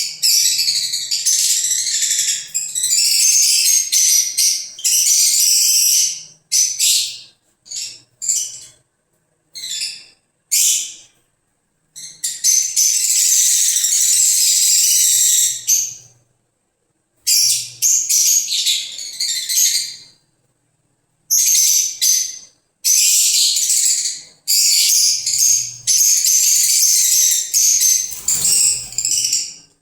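Fischer's lovebirds chattering in shrill, high-pitched chirps and screeches. The sound comes in bursts of a second to a few seconds, each followed by a short silent gap.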